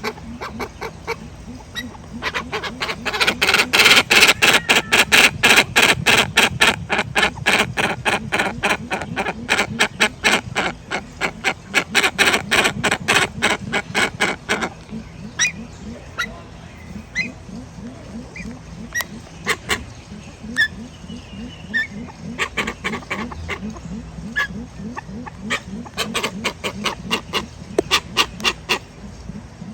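Grey-winged trumpeters calling: a fast run of sharp clucking calls, several a second, over a train of deep rhythmic low notes. The calls are loudest for about ten seconds from a couple of seconds in, thin out, then pick up again near the end.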